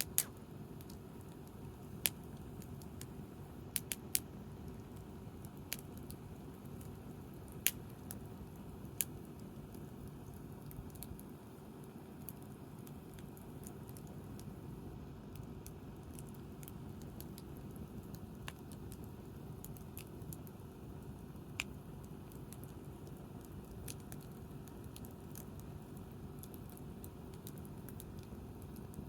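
Wood campfire crackling: sharp, irregular pops, most of them in the first ten seconds, over a steady low rumble.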